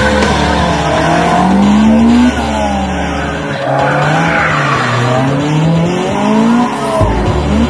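Rally car engines revving hard, their pitch rising and falling again and again as the cars are flung around a cone course. The sound changes abruptly about two seconds in and again near the end.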